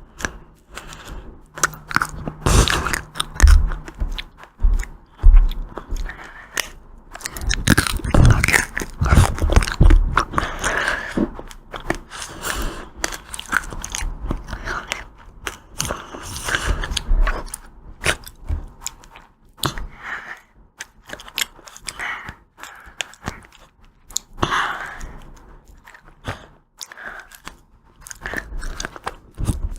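Close-miked eating of ice cream: crisp bites that crack and crunch, then wet chewing and mouth sounds, in irregular bursts that are busiest in the first half and thin out later.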